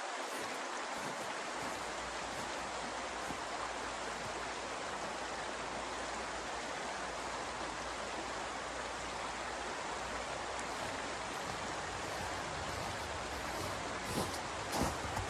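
A steady rushing hiss that holds at an even level, with a few short light knocks near the end.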